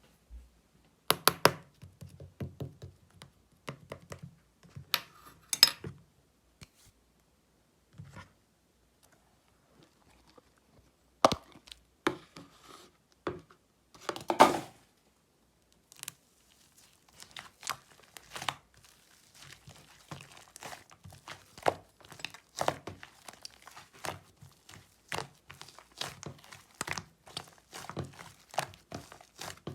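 Ice-cream clay slime being squished, stretched and pulled by hand, with sticky crackling and tearing sounds. A few louder snaps stand out in the first half, and from about halfway a dense, steady run of small crackling pops takes over.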